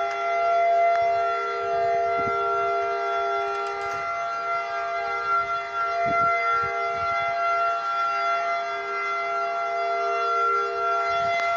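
Outdoor tornado warning siren sounding a steady, unwavering tone, heard over a two-way radio channel.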